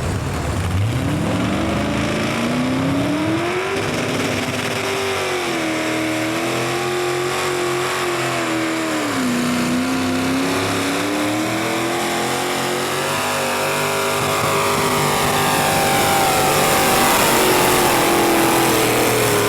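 A pulling truck or tractor engine run hard under load during a pull. The revs climb over the first few seconds and are then held high, wavering. They sag about halfway through, pick up again, and drop off at the end.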